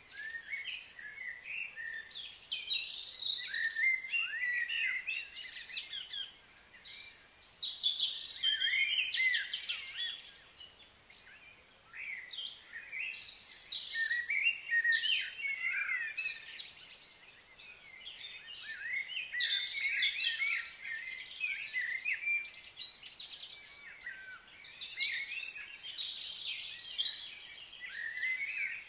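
Several small birds chirping and singing, many short whistled notes overlapping in busy bouts with short lulls every few seconds.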